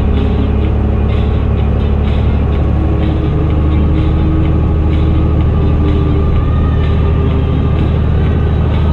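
Fendt Favorit 926 Vario tractor's six-cylinder diesel engine working through an open exhaust pipe: a loud, steady drone whose note shifts slightly about three seconds in.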